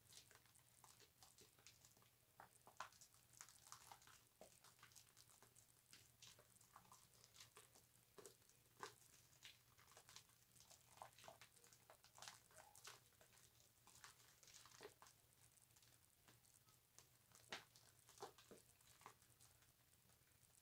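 Faint wet squishing and crackling of bar soap being lathered, with irregular small pops of foam.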